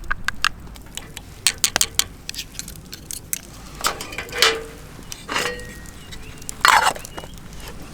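Small hard objects clinking and clattering as they are handled, with a few brushing rustles in between.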